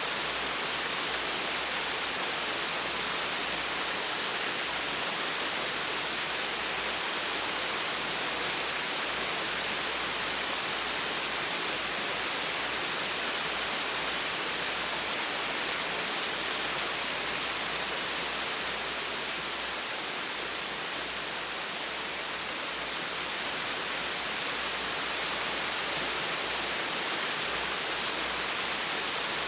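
Gentle waterfall: a steady rush of falling water, with a brief, slight dip in level about two-thirds of the way through.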